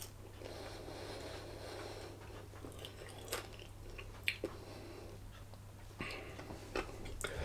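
A person chewing food, quiet mouth sounds with a few faint clicks.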